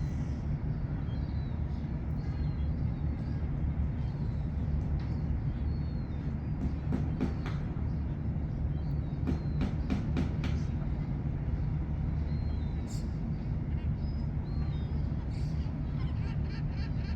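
Steady low engine drone of a ship on the water. Small bird chirps, a few sharp clicks in the middle and a quick run of ticks near the end sit over it.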